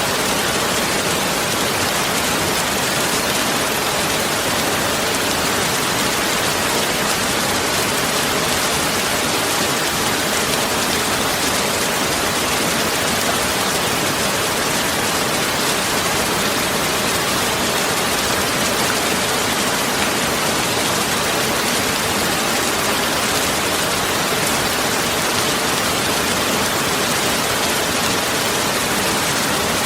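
Steady, unbroken rushing noise of the rain kind, spread evenly across high and mid pitches, with no separate drops, knocks or changes.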